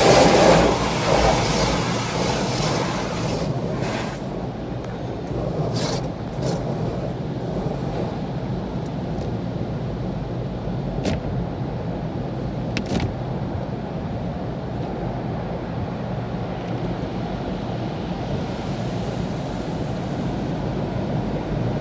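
Inside a car in an automatic car wash: a rushing hiss, like water spray on the body, fades out over the first few seconds and gives way to a steady low rumble, with a few short sharp clicks along the way.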